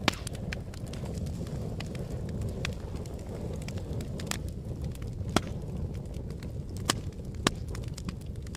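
A fire crackling: a steady low rumble of flames with frequent small snaps and a few louder, sharp pops.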